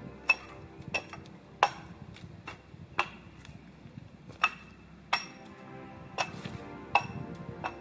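About ten sharp, irregularly spaced knocks or taps, some with a brief ring, over background music.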